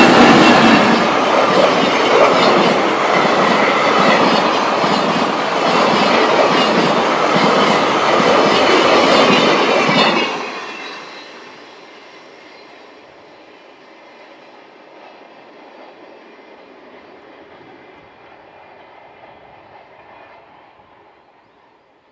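Container wagons of a freight train passing close at speed, the wheels clattering rhythmically over the rails. About ten seconds in, the sound drops away suddenly as the last wagon goes by, leaving a faint receding rumble that fades out.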